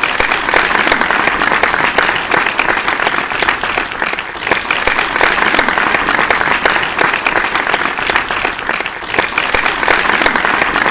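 A crowd applauding: loud, steady, dense clapping.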